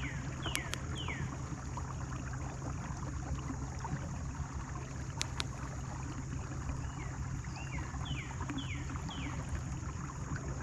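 Steady low electric hum of a kayak trolling motor running. Over it a bird calls in short whistles that fall in pitch, three quick ones at the start and several more near the end, with a few faint clicks.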